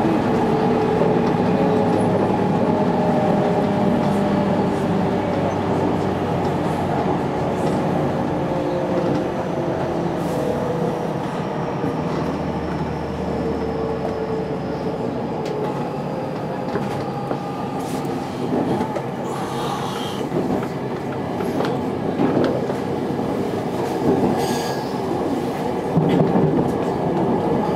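JR local electric train running along the line, heard from inside the front car: steady running noise with a motor whine that slowly falls in pitch over the first half, and scattered clicks and knocks of the wheels over the track.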